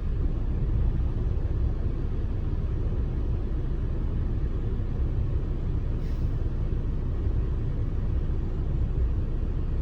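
Off-road truck driving along a dirt trail: a steady low rumble of engine and tyres.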